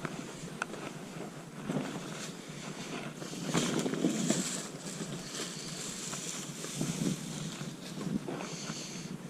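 Wind on the microphone over steady outdoor background noise, with a few faint knocks and a louder gust about three and a half seconds in.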